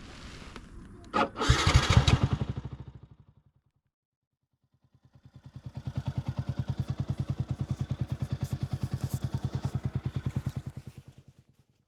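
Yamaha YZF-R125 single-cylinder four-stroke with a modified exhaust starting up: it catches about a second in, runs loudly for a moment and fades out. After a short silence it fades back in, idling steadily with even exhaust pulses, and fades out again near the end.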